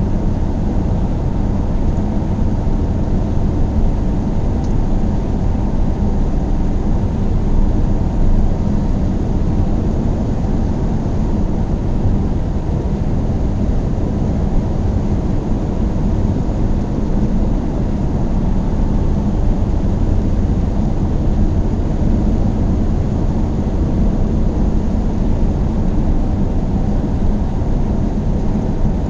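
A car driving steadily: a constant, mostly low-pitched noise of engine and tyres on the road that does not change in level.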